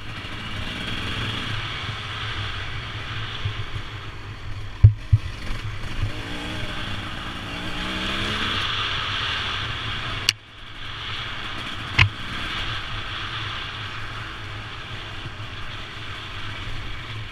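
Motorbike engine running on a GoPro ride, with a steady noise haze over it; the engine note rises about six to eight seconds in, and a few sharp knocks come through, about five and twelve seconds in.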